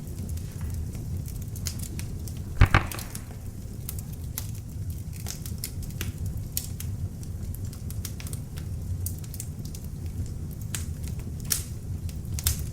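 Beech-wood log fire in an open fireplace, crackling steadily over a low rumble of flame. One loud pop about two and a half seconds in, and a couple of sharper snaps near the end.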